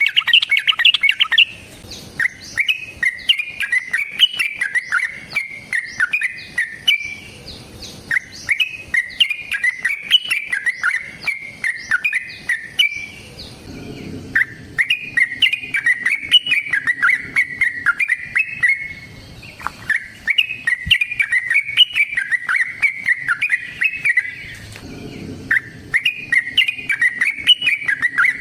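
Yellow-vented bulbul (trucukan) singing long, rapid, chattering phrases of about five seconds each, with short pauses between them.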